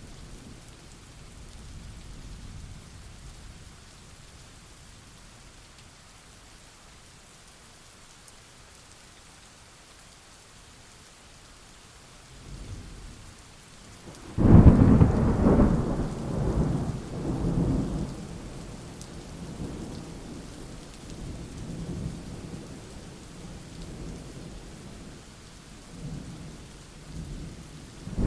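Thunderstorm: steady rain with a sudden loud thunderclap about halfway through that rumbles on for a few seconds, followed by softer rumbles and another clap at the end.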